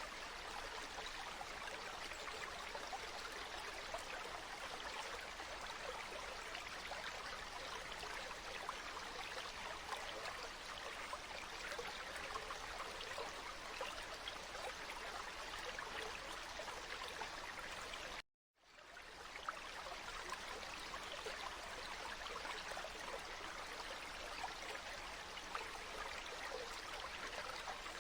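Flowing stream water, a steady rushing and trickling. The sound cuts out to silence for an instant about two-thirds of the way through and swells back in, like a loop splice.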